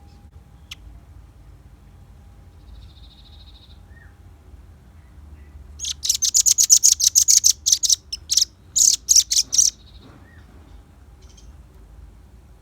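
Velvet-fronted nuthatch calling: a faint short trill a few seconds in, then a loud, rapid run of sharp, high notes lasting about two seconds, a brief break, and a few more quick notes.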